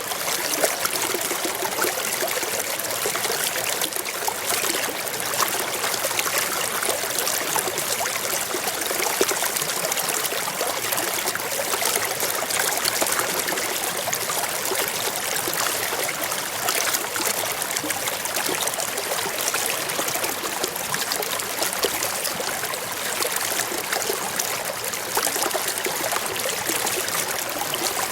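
Forest stream flowing over rocks: a steady, even rush and trickle of water with fine splashing detail.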